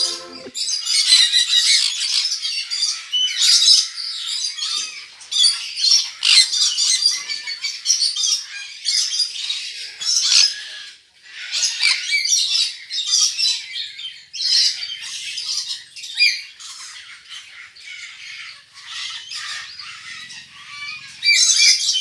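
Many birds calling at once: a dense, unbroken chorus of overlapping high squawks and chirps.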